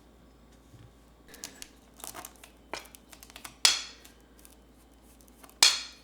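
Light rustling of paper or plastic, then two loud, sharp tearing sounds about two seconds apart, each fading quickly.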